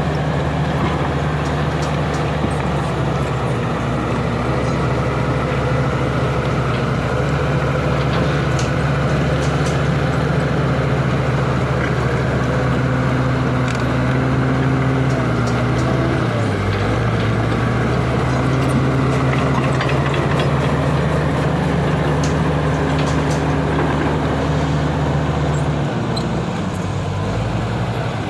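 Heavy diesel engine of road-construction machinery running steadily, with small shifts in engine speed a little past halfway and again near the end.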